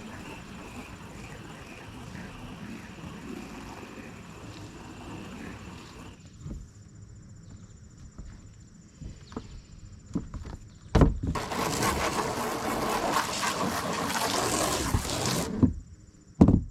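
Water spraying from a hose onto an RV roof: a steady hiss for about six seconds, a quieter pause with scattered knocks, then a louder burst of spray for about four seconds, with a sharp thump near the end.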